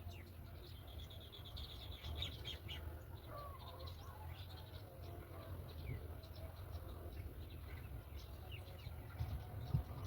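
Birds chirping: short high calls scattered throughout, with a quick run of rapid notes about a second in, over a low steady rumble.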